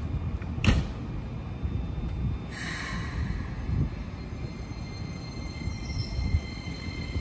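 A Keikyu 1000-series electric train starting to pull out of a station. A sharp knock comes just under a second in, then a burst of hiss about two and a half seconds in. From halfway through, a high electric whine from the motors sits over a low rumble as the train begins to move.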